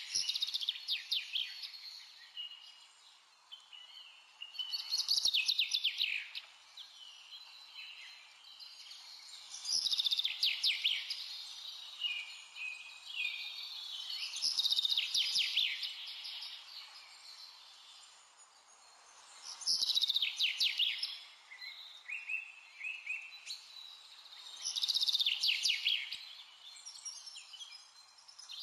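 Birdsong: a small songbird's quick chirping, trilling phrase repeated about every five seconds, with a faint steady hiss between phrases.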